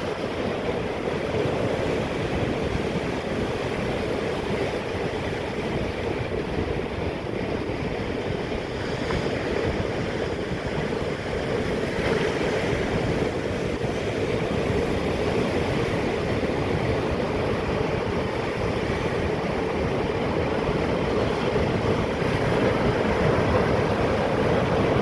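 Atlantic surf breaking and washing over rocks: a steady, unbroken rush of water that grows a little louder near the end.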